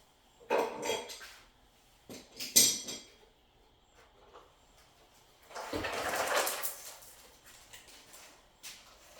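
Unboxing handling noises: a few hard knocks and clatters, the loudest about two and a half seconds in, then a stretch of rustling and scraping lasting about a second and a half.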